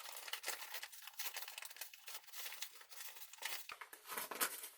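Ammonium nitrate granules and aluminum powder being mixed inside an opened plastic cold pack: an irregular, continuous crinkling and rustling of the plastic and the granules.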